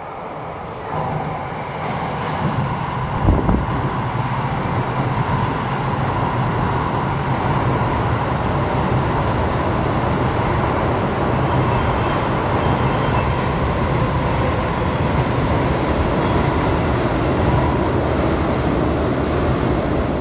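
Keio 5000 series electric train running through an underground station without stopping: a loud, steady rush of wheels and running gear echoing off the concrete, with a steady high tone over it. A single sharp thump comes about three seconds in.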